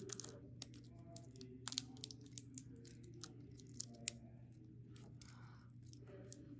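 Faint handling sounds of adhesive tape being pulled, torn and pressed down to fix a paper clip to a popsicle stick: irregular small clicks and crinkles, the sharpest just before two seconds in and at about four seconds. A steady low hum runs underneath.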